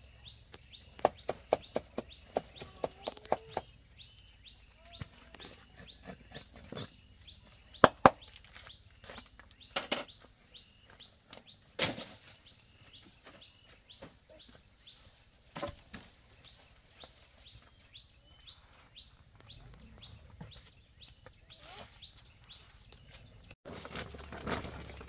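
Small birds chirping in a fast, even series of high chirps, with a run of quick taps in the first few seconds and a few scattered sharp knocks. The sound changes abruptly near the end.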